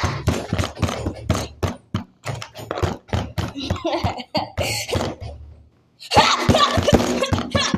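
A person's voice making rapid punch and hit sound effects with the mouth, mixed with grunts, for a fist fight. The hits come in quick runs, break off for a moment near the two-thirds mark, then start again in a dense burst.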